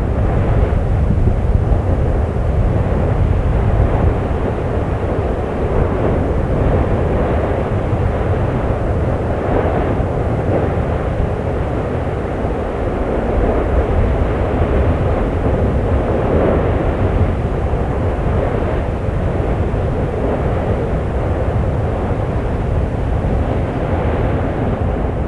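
Steady low rumble of an erupting volcano, even in level throughout, with no separate bangs.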